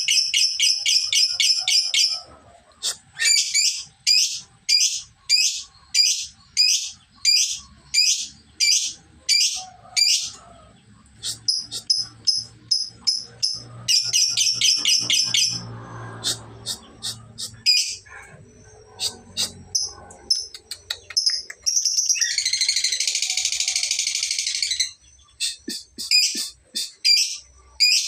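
Lovebird calling in a series of sharp, high chirps broken by fast chattering trills, the longest and densest near the end: a young bird learning the long 'ngekek' trill, its trills now starting to run longer.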